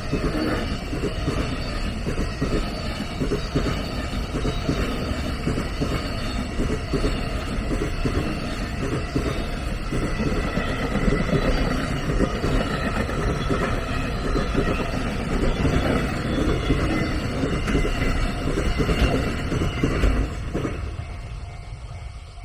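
A train running past close by, its wheels clattering over the rails in a steady stream of knocks. The noise drops away over the last two seconds.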